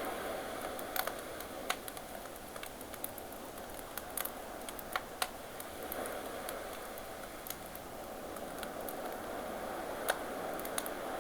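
Campfire crackling with irregular sharp pops over a steady wash of ocean waves.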